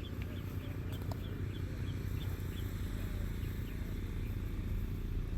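Steady low rumble with a small bird chirping in short, quick repeated notes, about three a second, fading out about halfway through.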